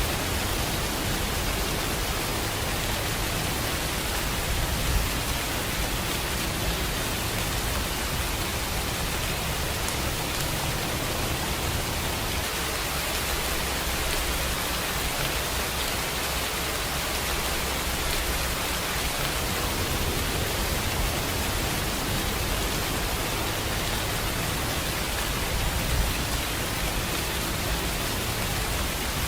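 Rainfall: a steady, even hiss that does not let up, with a couple of slightly louder hits.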